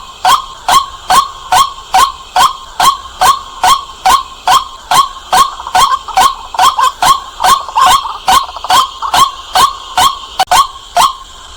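White-breasted waterhen calling loudly, one short 'kwak' note repeated over and over at about two and a half a second in a fast, even series.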